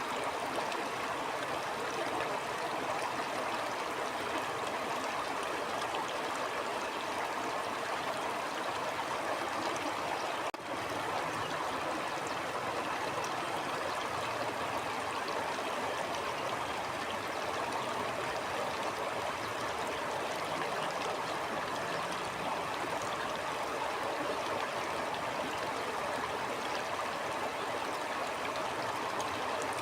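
A stream flowing steadily, with a continuous babbling water rush. There is one brief dip in level about ten seconds in.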